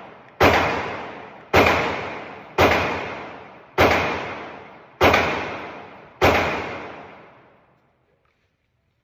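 Six gunshots fired at a steady pace, about one every 1.2 seconds, each with a long echoing tail that dies away over a second or more.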